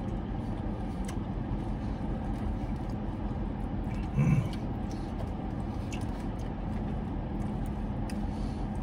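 Steady hum of a parked car's idling engine and air-conditioning fan, heard inside the cabin, with faint clicks from eating and a brief low sound about four seconds in.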